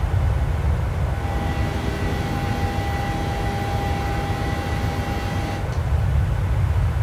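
Boeing 737 cabin noise in the climb: a steady low rumble of the engines and airflow. A steady whine comes in about a second in and cuts off suddenly after about four and a half seconds.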